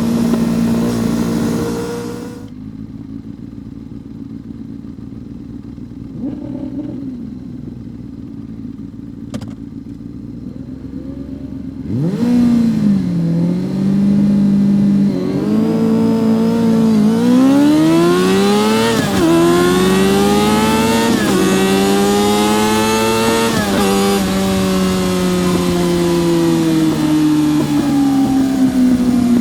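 Yamaha R6 600cc inline-four race engine at speed. After about two seconds it drops to a much quieter level for roughly ten seconds. Then it opens up loudly and accelerates hard through several upshifts, pitch climbing and dropping back at each gear change, before holding high revs that ease down slowly near the end.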